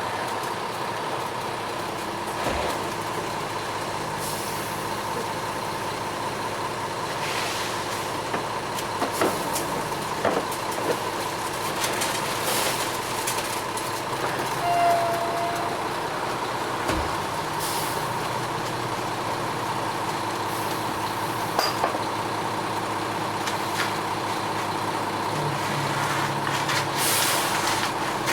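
Front-discharge ready-mix concrete truck's diesel engine running steadily, with short bursts of air hiss several times.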